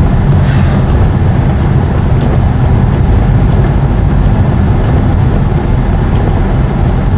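Ford Escort driving on a snow-covered road, a steady, loud rumble of engine and tyres heard from inside the car, with a brief hiss about half a second in.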